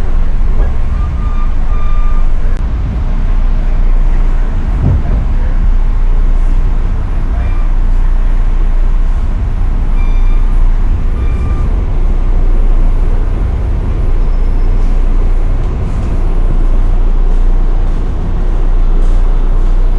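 Inside a Chicago and North Western gallery commuter car slowing under braking: a steady low rumble of the wheels on the rails, with several brief high squeals as the brakes are applied.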